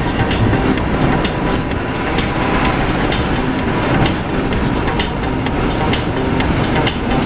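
Car driving on a wet road in the rain, heard from inside the cabin: a steady rushing of tyre and rain noise with scattered short ticks.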